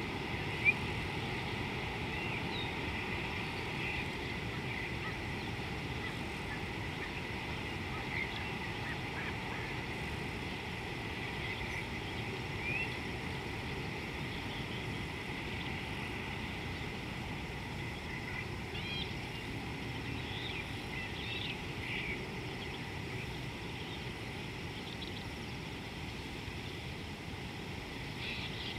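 Outdoor riverside ambience: a steady low background noise with scattered short bird calls and a steady high tone, and one sharp click about a second in.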